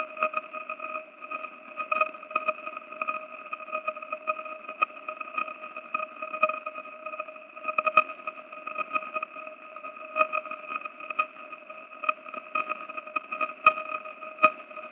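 Sonified radio signal of the Black Widow pulsar (PSR B1957+20): a steady buzzing tone at its 622 Hz spin rate, an E-flat, that flickers irregularly in loudness with sharp clicks. The flickers come from the brown dwarf companion's clumpy plasma tail lensing the signal.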